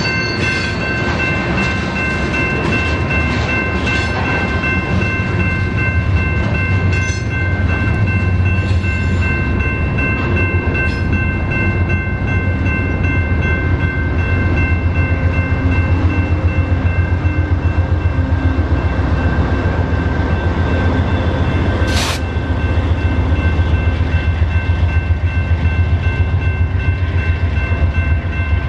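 BNSF freight train rolling past, its cars making a steady low rumble with a fast rattling rhythm, and a steady high-pitched ringing over it. A single sharp clank is heard about 22 seconds in.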